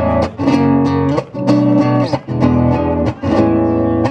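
Acoustic guitar strumming the chords of a Cuyo tonada, with no singing. The chords are struck sharply and change roughly once a second.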